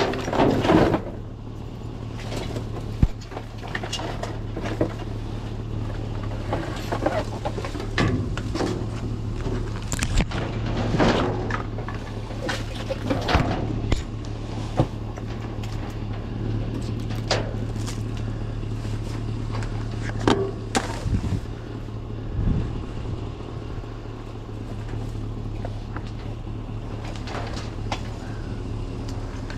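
Vehicle engine running steadily with a constant low hum, with scattered knocks and rustles over it and a louder clatter right at the start.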